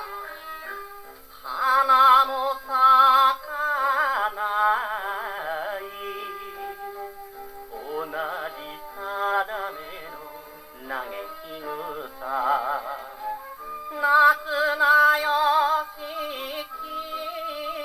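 Acoustic 78 rpm record of a Japanese popular song played on an HMV 102 wind-up gramophone with a steel needle: an instrumental interlude between verses, a melody played with heavy vibrato in phrases that start and stop.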